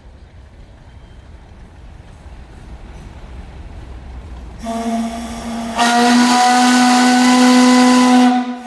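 Port Huron steam engine's steam whistle blowing one long, steady, low-pitched blast with a loud rushing hiss, starting a little past halfway and swelling about a second later.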